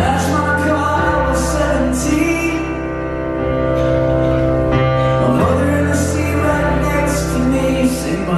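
Live pop-rock song played by a band, with a sung lead vocal over sustained chords, a strong bass line and cymbal hits. The full band comes in suddenly at the very start.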